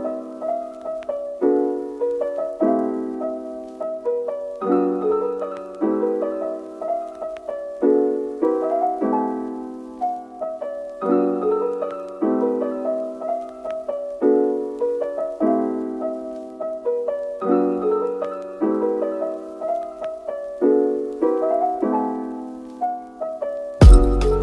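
Gentle background piano music: a slow melody of notes and chords rising and falling in short phrases. Near the end a loud, sharp clatter cuts in over it.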